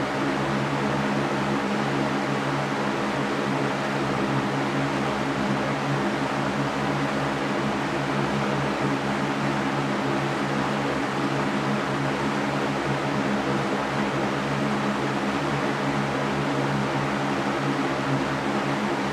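Electric fan running steadily: an even whoosh of air with a low motor hum, unchanging throughout.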